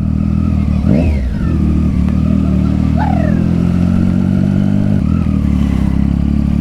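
Triumph Street Triple 675's inline-three engine running through a loud aftermarket Yoshimura exhaust, blipped up in revs twice, about one and three seconds in, each rev falling away again.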